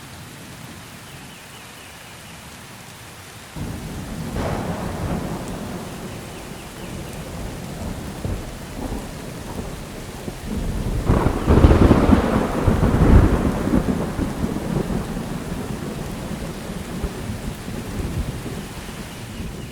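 Steady rain with rolling thunder: a low rumble breaks in suddenly a few seconds in, swells to a loud crack and roll about halfway through, then slowly dies away under the rain.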